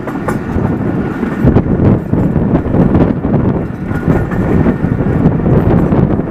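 Jaffar Express passenger train running on the rails: a loud, steady rumble with irregular knocks from the wheels and cars.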